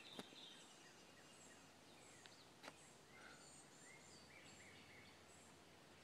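Near silence of woodland with faint, distant songbird calls: short high chirps repeated throughout, and a few lower chirps midway. Three faint clicks are also heard, the last about two and a half seconds in.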